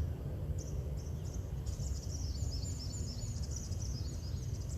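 Small birds chirping in quick runs of high notes, busiest in the middle of the stretch, over a steady low outdoor rumble.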